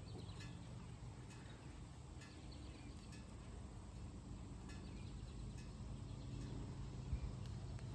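Quiet outdoor background: a faint steady low hum with scattered faint ticks and chirps.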